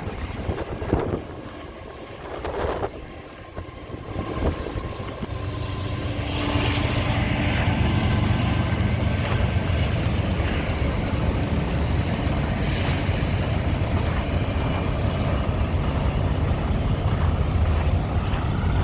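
Diesel engine of a semi truck running at idle, a steady low rumble that comes up about six seconds in, after a few knocks and bumps.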